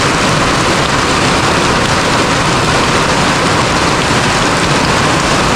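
Heavy rain falling steadily, with no let-up.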